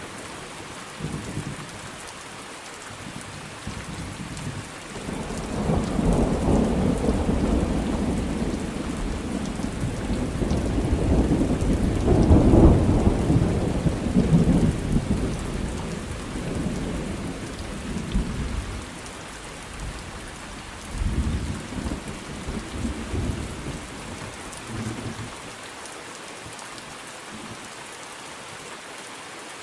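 Thunderstorm: steady rain falling, with a long roll of thunder that builds from about five seconds in, peaks near the middle and fades out, followed by a few shorter low rumbles. Near the end only the rain is left.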